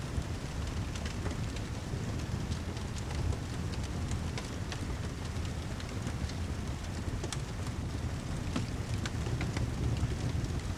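Rain and fireplace ambience: a steady low rumble of rain with a wood fire crackling, scattered sharp pops over the even hiss.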